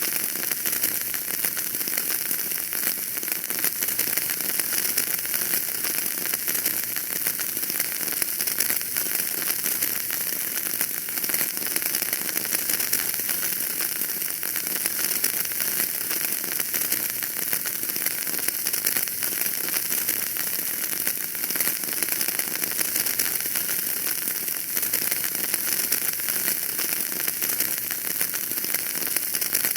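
Wood fire burning in a fireplace, crackling steadily with a dense run of small pops over a soft hiss.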